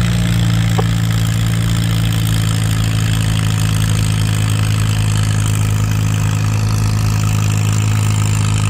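Antique tractor engine idling steadily, a low even hum with no revving.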